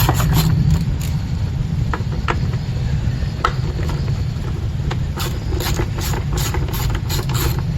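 Sharp tool clicks on the plastic HVAC box as the blower motor's screws are worked out, a few scattered at first, then a regular run of about three clicks a second from about five seconds in, over a steady low hum.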